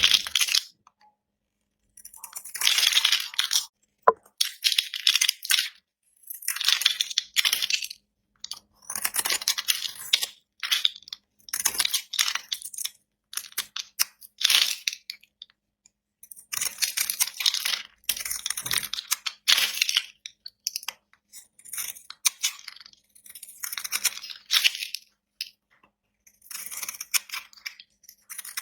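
A blade cutting through dry bar soap, giving crisp, crackly scraping strokes. There are about a dozen short bursts, each separated by a brief pause, and a single sharp click about four seconds in.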